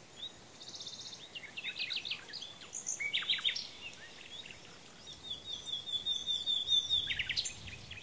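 Songbirds chirping and singing: scattered short high calls, then a rapid, even trill from about five seconds in lasting around two seconds.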